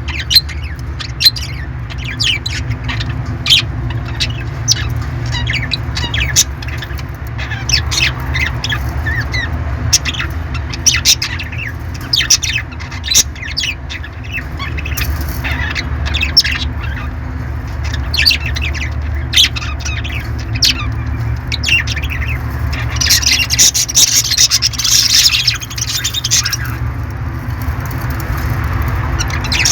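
Parrots squawking and chirping in many short, sharp calls, with a denser, louder spell of screeching about three quarters of the way through, over a steady low hum.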